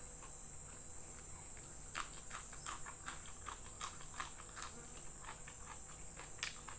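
Raw long bean bitten and chewed close to the microphone: a run of sharp, irregular crisp crunches starting about two seconds in.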